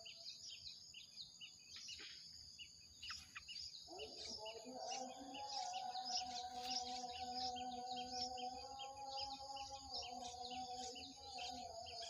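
Small birds chirping over and over, short high chirps at about four a second. Under them a steady low hum comes in with a rising sweep about four seconds in.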